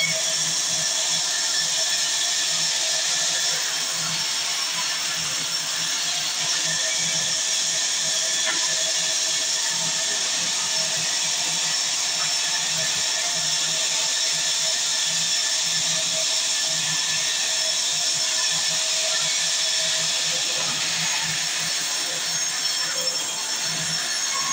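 Sawmill saw running steadily through timber: one continuous, even machine noise with no breaks or pauses.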